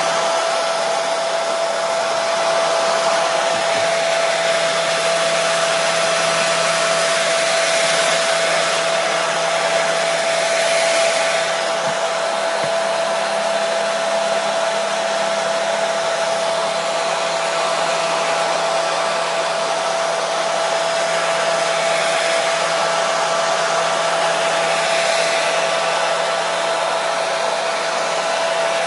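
Hair dryer running steadily: a continuous rush of blown air with a constant motor whine underneath, unchanging throughout.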